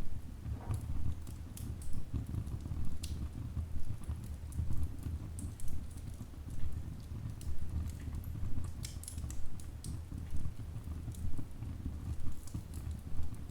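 Wood fire burning in a fireplace: scattered sharp crackles and pops of burning logs over a steady low rumble of the flames.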